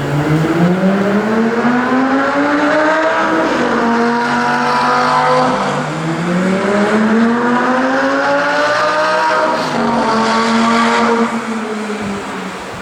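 Lamborghini Gallardo V10 accelerating hard through the gears: the engine note climbs steeply, drops sharply at three upshifts, and fades near the end.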